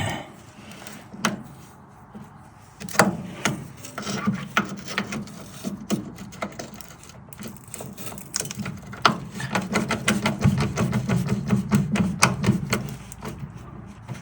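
Hand tools working a gearbox mount bolt: scattered metal knocks and clicks, then a run of rapid ratchet clicking in the second half as a socket wrench is worked back and forth.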